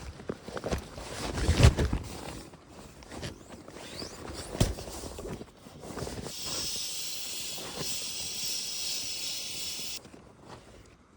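Camping gear being handled and packed: rustling and knocking, with a loud thump about a second and a half in. From about six seconds a steady hiss sets in and cuts off suddenly near ten seconds.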